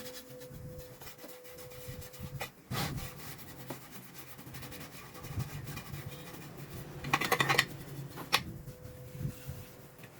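Scraping and rubbing of hand work, with a louder rasping burst about seven seconds in and a sharp click just after.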